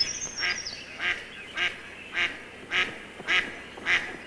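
Mallard duck quacking in a steady, evenly spaced series of about eight quacks, somewhat under two a second. A brief high chirp sounds near the start.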